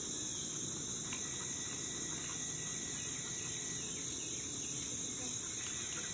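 Steady outdoor chorus of insects: a constant, unbroken high-pitched shrilling.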